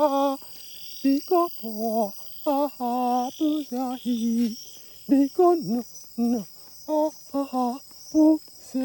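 Cooing: short pitched notes, some wavering or gliding, in quick runs with a few longer held notes. Insects chirr steadily behind.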